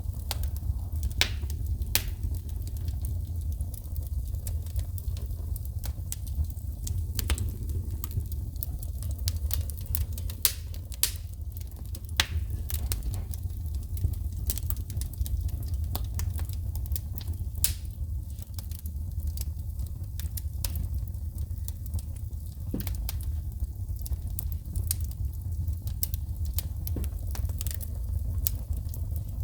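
Wood fire burning in a fireplace: a steady low rumble of flames with frequent sharp crackles and pops from sparking wood, scattered at irregular intervals.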